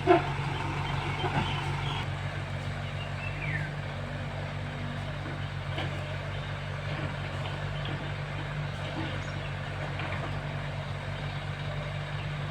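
A heavy diesel engine running steadily at low revs, with a sharp knock right at the start.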